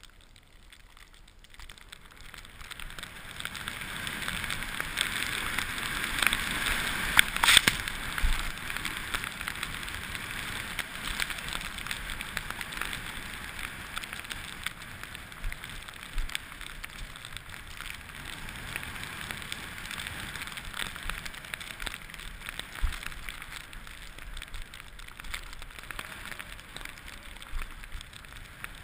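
Skis sliding and scraping over snow, a crackling hiss that builds over the first few seconds. A sharp scrape stands out about seven and a half seconds in.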